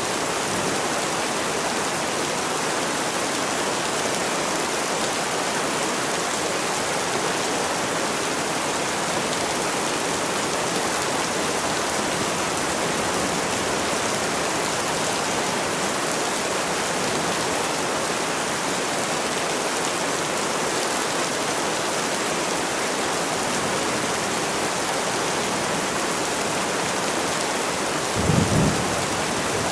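Steady, heavy rain falling, an even hiss of drops. A brief low rumble comes near the end.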